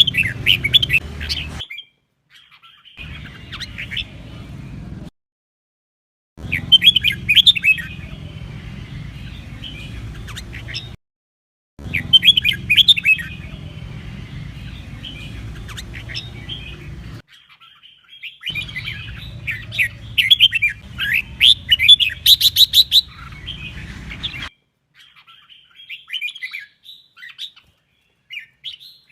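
Red-whiskered bulbul singing loud, rapid warbling phrases, in several bursts of a few seconds with short silent breaks between them.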